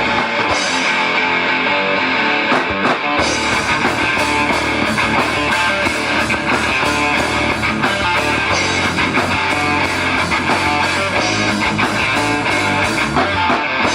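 Live rock band playing an instrumental break: electric guitar strumming over bass and drums, with no singing; the low end and drums fill out about three seconds in.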